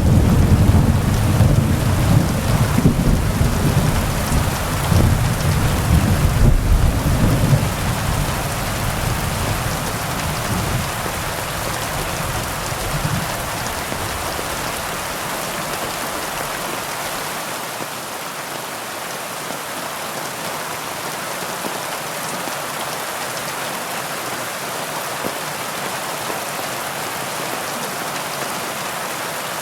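Heavy rain falling steadily, with a low rolling rumble of thunder that fades away about halfway through, leaving only the hiss of the rain.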